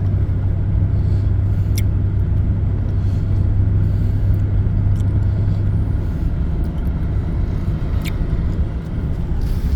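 A vehicle's engine drones steadily over rumbling road noise, with a couple of brief clicks.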